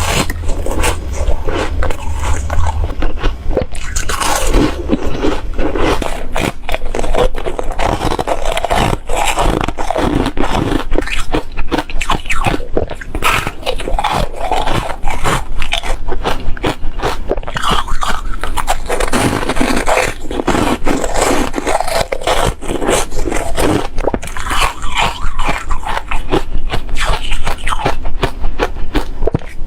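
Close-miked biting and chewing of crispy frozen foam: a dense, continuous run of rapid crisp crunches.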